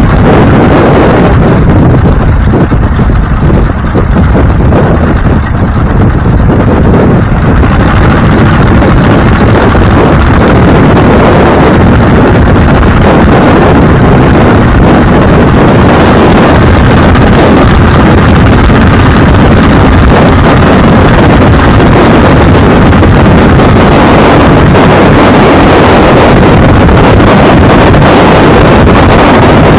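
Loud, constant wind noise buffeting the microphone of a moving vehicle, with a low road and engine rumble underneath; the hiss is a little lighter for the first several seconds.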